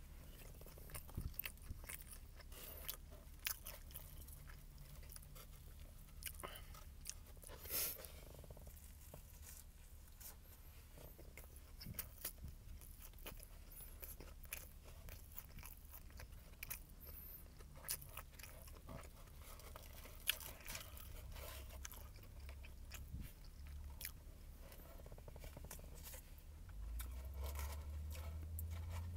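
Close-up biting and chewing of a fried chicken sandwich with glazed donut buns: irregular crunches of the crispy chicken breading. A low steady hum sits underneath and grows louder near the end.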